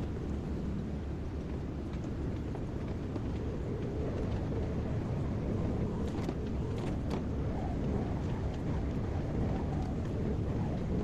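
Kobelco excavator's diesel engine running steadily, a constant low rumble, with a few faint knocks about six to seven seconds in.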